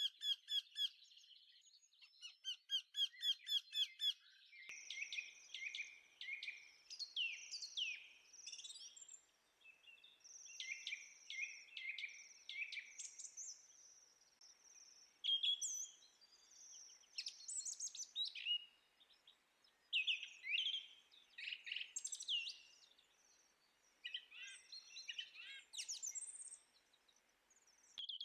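Birds singing: first a fast, evenly spaced run of high chirps, then from about five seconds in a varied song of short whistles, chirps and trills over a faint hiss.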